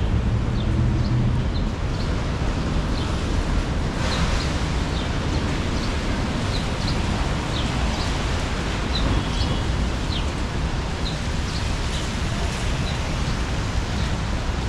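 Steady city street noise on wet roads: low traffic rumble and tyre hiss, with a louder hiss starting about four seconds in. Faint short high chirps recur throughout.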